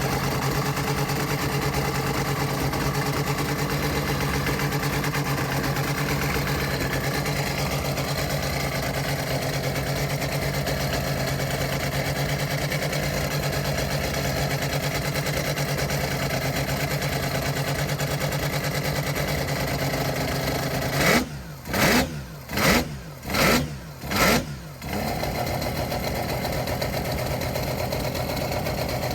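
Six-rotor rotary engine in a Mazda Cosmo idling steadily. A little over 20 seconds in, the throttle is blipped five times in quick succession over about four seconds, and then it settles back to idle.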